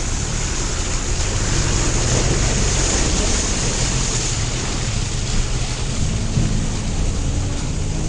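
Off-road vehicle engine running steadily under a loud rushing noise of wind on the microphone.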